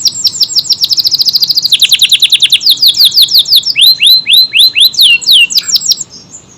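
Kenari AF canary singing loud, rapid repeated down-slurred notes: a fast tight trill for the first second and a half, then slower falling whistles. The song breaks off shortly before the end.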